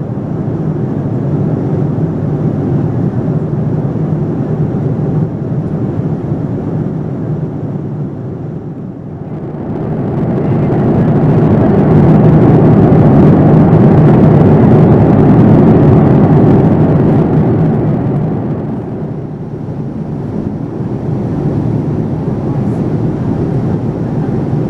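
Steady cabin noise of a Boeing 787-9 in flight, airflow and engine noise heard from inside the cabin. It swells noticeably louder for about ten seconds midway, then eases back.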